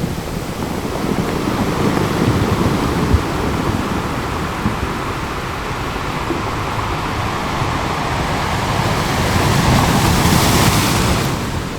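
Ocean surf washing onto a beach in a continuous rush, with a wave swelling and breaking about nine to eleven seconds in before easing off.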